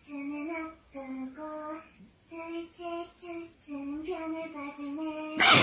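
A high voice singing a simple tune in short, steady held notes, one after another with brief gaps. A loud, noisy burst cuts in near the end.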